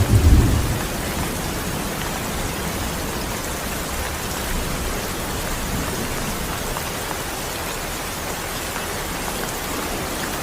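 Steady rain falling as an even hiss, with the end of a low thunder rumble fading away in the first second.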